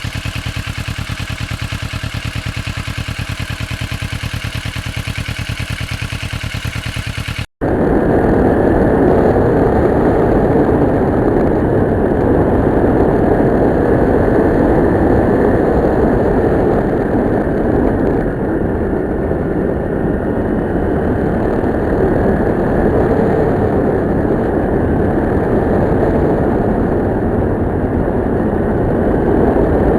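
Kawasaki Ninja 650R's parallel-twin engine running at a steady pace with even firing pulses. After a sudden cut about seven seconds in, it is heard under way, louder, with a dense steady rush of riding noise.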